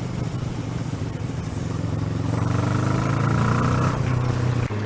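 Kawasaki ER-6n's parallel-twin engine running under wind noise, its note rising gradually from about halfway as it pulls, then dropping back near the end.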